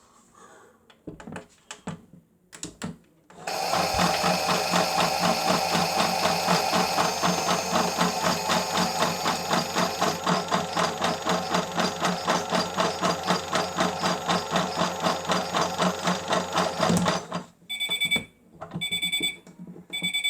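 Miele W1 toy washing machine's small electric motor running with a loud, fast-pulsing buzz for about thirteen seconds and then stopping, followed by three short electronic beeps from the toy. A few light clicks of the door and button come before it.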